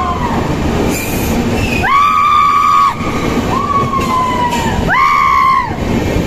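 Passenger train running through a tunnel, heard loud from an open carriage door: a dense steady rumble, with three high-pitched tones that each rise in, hold for about a second and drop away.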